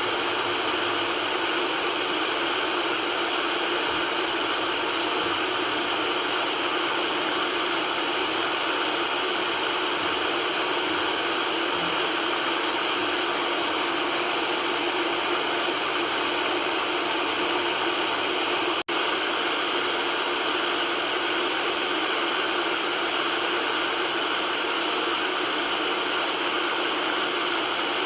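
Steady white-noise hiss, even and unchanging and light in the bass, with one momentary dropout about two-thirds of the way through.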